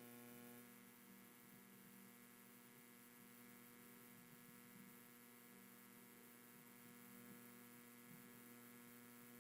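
Near silence with a faint steady electrical hum in the recording.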